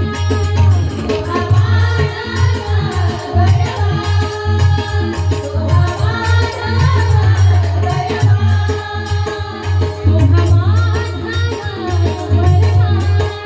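Marathi devotional abhang music: a pakhavaj drum beats a steady rhythm with small hand cymbals jingling on the beat, under a gliding melodic line.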